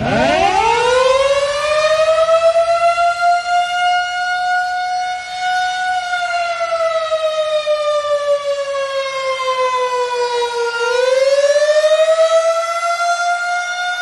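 Federal Signal 2001 electromechanical outdoor warning siren winding up from rest to a steady single tone within a few seconds, then slowly winding down and rising again about eleven seconds in, a wail cycle.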